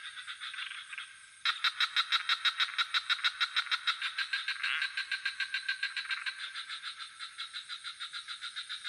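Swamp frog chorus of rapid, evenly pulsed croaking calls, about six or seven a second, over a steady high-pitched insect trill. The calling is softer at first, then comes back in suddenly and louder about one and a half seconds in.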